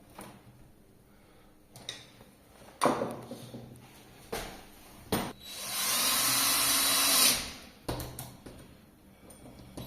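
A cordless drill-driver runs for about two seconds near the middle, with sharp knocks and clicks before and after it.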